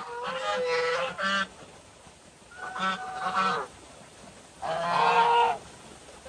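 Domestic geese honking in three loud bouts of repeated calls, each lasting about a second.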